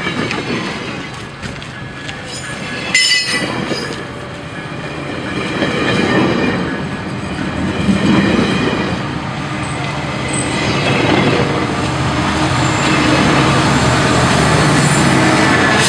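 A GO Transit push-pull commuter train pulls out and rolls past, its wheels clattering over the rails. A brief high-pitched wheel squeal comes about three seconds in. Near the end a low steady engine hum grows louder as the MP40PH-3C diesel locomotive pushing at the rear draws near.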